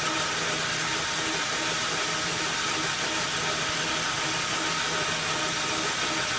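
Logan metal lathe running steadily at 400 RPM through a light boring pass in a cast-iron pulley, the boring-bar insert barely touching the bore: an even machine hum and whir.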